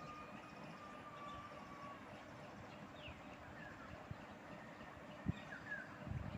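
Faint outdoor ambience with a few short, falling bird chirps, and a single knock a little after five seconds in.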